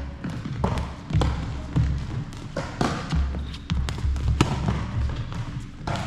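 Play in a doubles racket-sport rally: sharp hits, about one to two a second, over low thuds.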